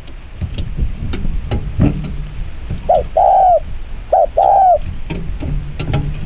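Spotted dove giving its fast challenge coo. Two quick coos, each a short note and then a longer one, come about three and four seconds in, over a low rumble and scattered clicks.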